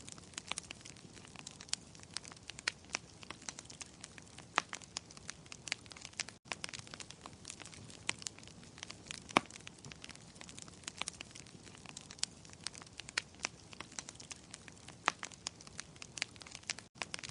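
Wood fire crackling in a fireplace: irregular sharp pops and snaps over a soft, steady hiss of burning.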